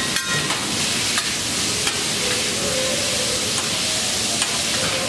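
Steak and chicken sizzling on a hot hibachi griddle, a steady frying hiss, with a few sharp clicks as the chef's metal spatulas strike and scrape the steel.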